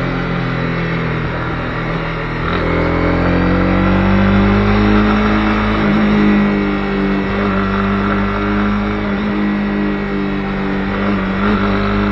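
Honda CB250R's single-cylinder engine pulling on the move: the engine note rises about a third of the way in, then holds steady, with a couple of brief dips.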